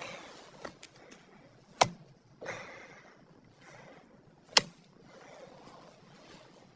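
Two sharp knocks about three seconds apart, with a brief rustle between them and small ticks and handling noises around them.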